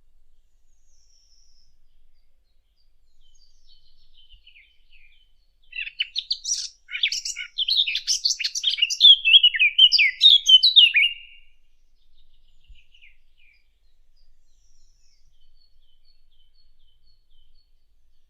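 Song of a Sylvia warbler, the bird known in Arabic as the fig bird: one fast, rich warbling phrase of about five seconds beginning around six seconds in and growing louder toward its end, with faint scattered twitters before and after.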